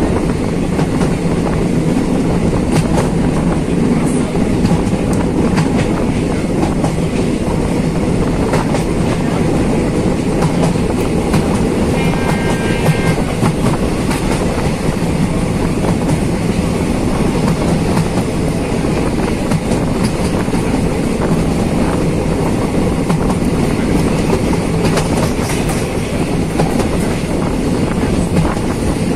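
Passenger train running at speed, heard from a coach window: a steady low rumble of wheels on the track mixed with rushing air, and clatter over the rail joints.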